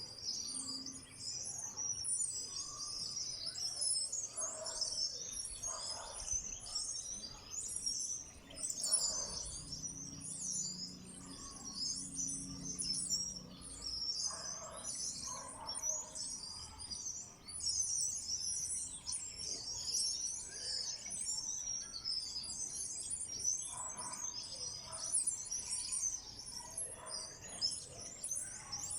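A flock of small wild birds chirping without a break, many high calls overlapping into a dense chatter.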